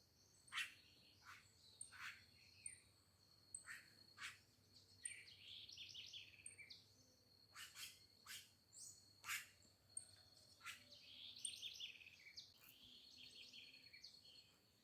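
Faint birdsong: several birds giving sharp chirps and short warbling phrases over a steady, high-pitched insect trill.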